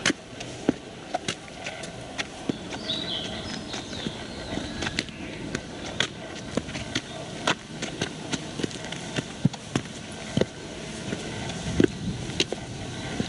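Footsteps on a park path, an uneven run of crunching steps and knocks about one or two a second, with a short bird chirp about three seconds in.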